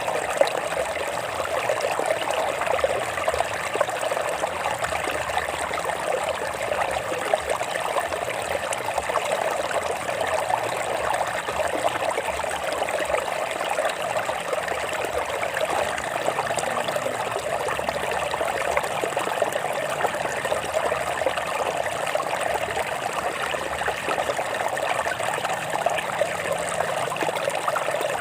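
Stream water flowing and trickling over rocks: a steady, even babble with no change.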